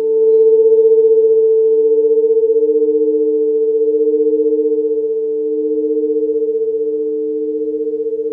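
Sound-healing sleep frequency drone: several steady electronic pure tones held together, with a quick wavering beat. One of the middle tones swells and fades about every second and a half.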